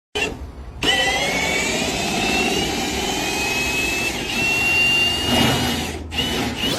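Suzuki Alto's 660 cc three-cylinder engine running, with a high whine that climbs slowly in pitch as it revs. The sound drops out briefly about six seconds in.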